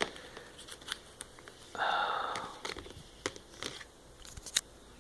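Watch packaging being handled and unwrapped: scattered light clicks and taps, with a short papery tearing rustle about two seconds in.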